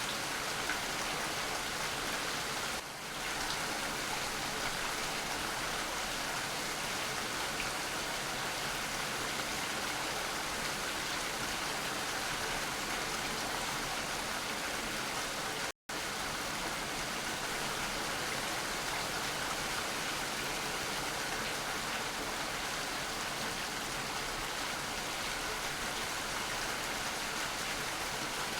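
Steady, even rain, with a brief dip a few seconds in and a momentary dropout to silence about halfway through.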